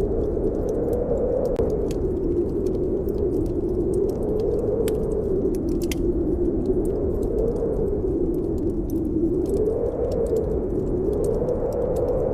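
Snowstorm wind howling steadily, its pitch slowly rising and falling, over a wood fire in a fireplace crackling with scattered sharp pops.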